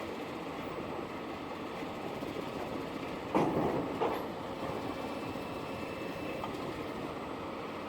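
Scania V8 truck running with steady engine and road noise, a loud clatter about three and a half seconds in and a smaller knock half a second later.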